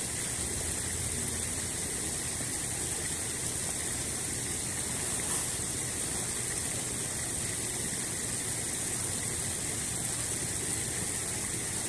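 Steady rushing noise with a low hum beneath and a strong hiss, unchanging throughout.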